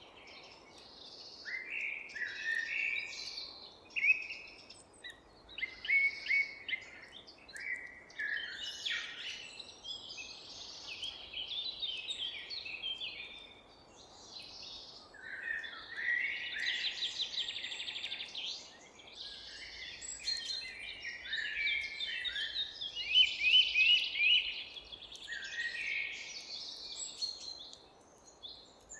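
Several wild birds chirping and singing at once, their calls overlapping, with rapid trills in the middle and again later on, over a faint steady background hiss.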